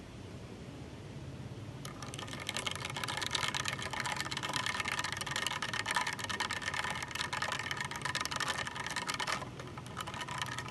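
A drink being poured into a glass, a dense fizzing crackle. It starts suddenly about two seconds in and stops sharply about seven and a half seconds later.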